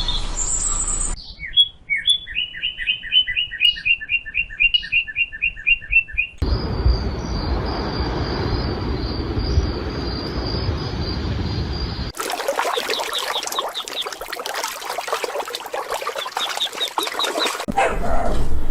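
Several short animal recordings cut one after another. About a second in, a bird calls with a quick run of repeated chirps for some five seconds; it is followed by a recording with a steady high tone over a hiss, then one full of rapid clicks with short high whistles.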